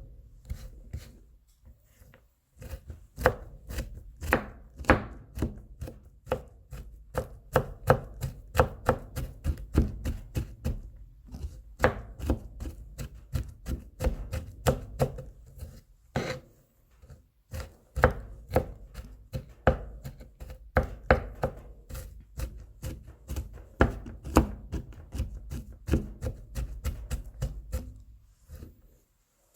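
Kitchen knife mincing garlic cloves on a cutting board: quick chopping strikes in fast runs, broken now and then by short pauses.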